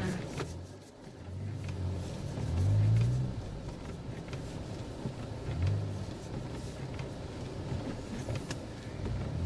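A vehicle engine running, revving up about two and a half seconds in and again more briefly a little past the middle.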